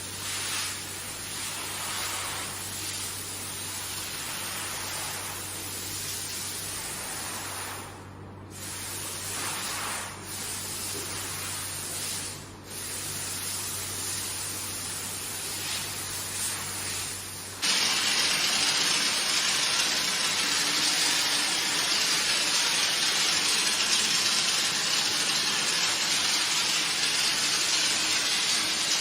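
Handheld pressure sprayer spraying water onto a carpet: a steady hiss over a low motor hum, cutting out briefly three times. About two-thirds of the way through, it switches abruptly to a louder, steady hiss.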